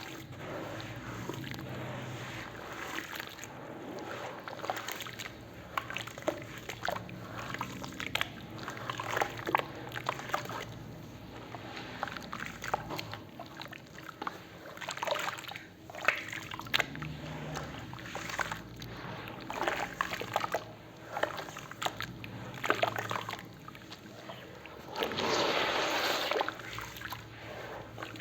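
Wet cement and concrete paste being mixed in water, sloshing and splattering, with irregular short splats throughout and a denser run of noise near the end.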